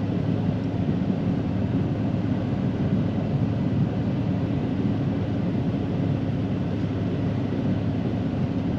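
Snowplow truck running steadily as it plows heavy, wet snow, a constant low drone.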